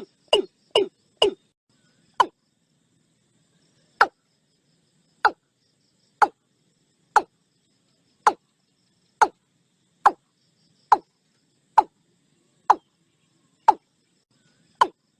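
Watercock calling: a series of short, sharp notes, each dropping quickly in pitch. They come about two a second at first, then slow to about one a second.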